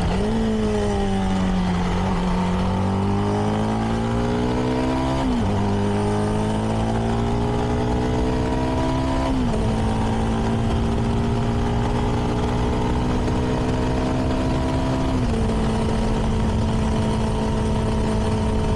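CFMoto 300NK's single-cylinder engine through its stock exhaust, accelerating out of a left turn and shifting up three times, about five, nine and fifteen seconds in, each shift a sudden drop in pitch, then holding a steady cruise. Wind rush on the helmet microphone runs underneath.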